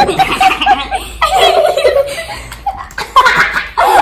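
Kids laughing hard: a quick run of short high-pitched laughs, then a longer drawn-out laugh.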